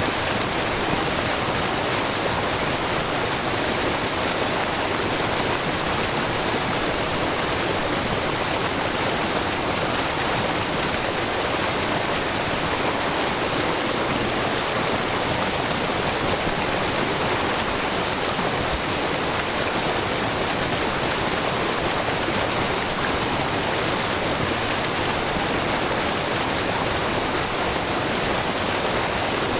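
Shiraito Falls, a low, wide waterfall of groundwater spilling in many thin strands over a rock face, making a steady rushing and splashing, with the babbling of a brook.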